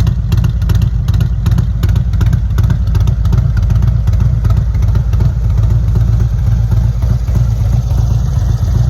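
Harley-Davidson V-twin engine fitted with an S&S 475c cam kit, running steadily with a low, pulsing exhaust note and no revving.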